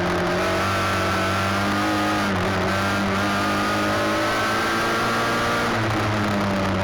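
Midget race car engine running hard at speed on track, with small rises and dips in pitch, one shift about two seconds in and another near the end.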